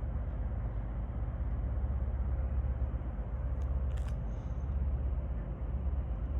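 Steady low outdoor rumble with a faint hiss, broken by two short sharp clicks a little past halfway through.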